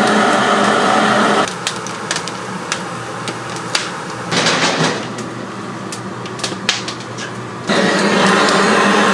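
A motor-driven machine hums steadily, cuts off about a second and a half in, and starts again near the end. In the gap there are scattered clicks and knocks and a short noisy rush about halfway through.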